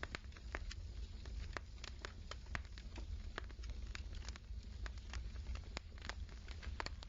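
Burning firewood crackling softly, with irregular small pops and snaps over a low steady hum.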